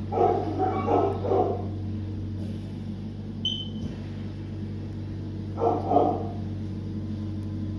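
A dog barking in two bouts: three barks at the start and a couple more about six seconds in, over a steady low hum.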